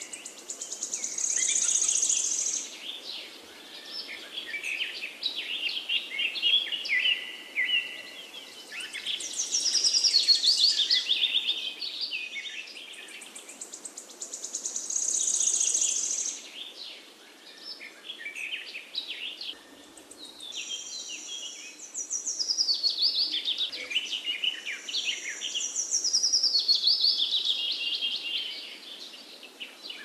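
Songbirds singing, with several songs overlapping. High phrases sweep downward and repeat every few seconds over a faint steady background hiss.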